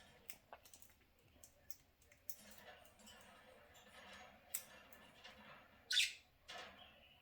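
Budgerigar giving one short, sharp squawk that falls steeply in pitch about six seconds in, amid faint light ticks.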